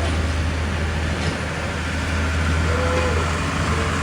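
A large engine running steadily with a low drone and no change in speed.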